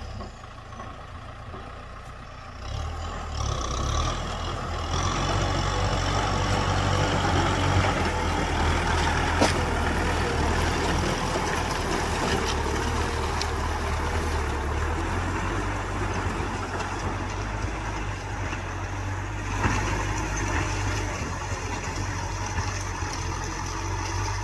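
Kubota M6040 tractor's diesel engine running steadily, quieter for the first couple of seconds and then louder, with a couple of sharp knocks along the way.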